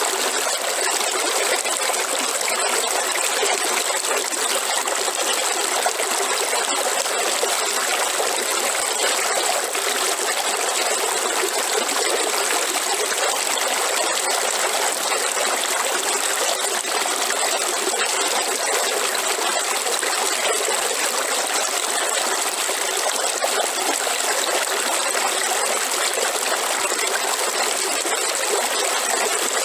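River water flowing and trickling steadily, an even rushing hiss without pauses or changes.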